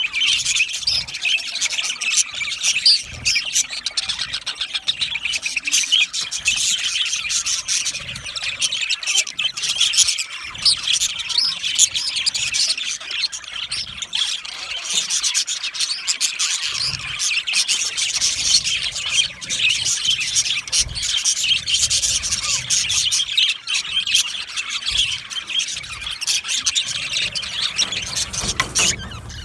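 A flock of budgerigars chattering continuously, with overlapping warbles, chirps and squawks.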